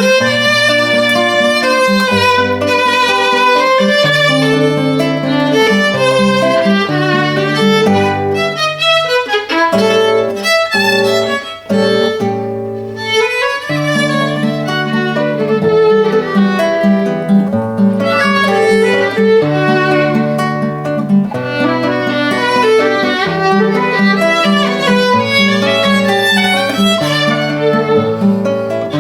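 Violin playing a minuet melody over a lower accompanying instrument.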